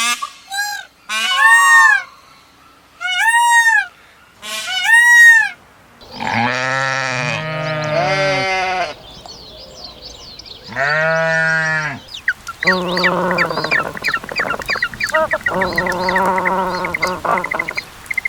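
Farm animal calls: four short, arched, fairly high calls in the first few seconds, then several longer, lower-pitched calls, and in the last six seconds more of the low calls mixed with rapid high chirping.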